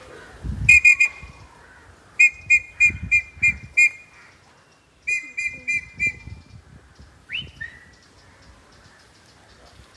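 Runs of short, sharp, high-pitched whistled pips (three, then six, then five in quick succession), followed by a single whistle that rises and then drops, near the end.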